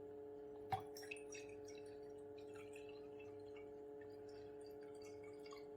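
Quiet handling of a dropper drawing up water: one sharp click just under a second in, then light scattered ticks and drips, over a faint steady hum.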